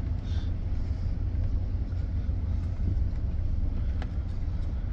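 Plow truck's engine running with a steady low rumble.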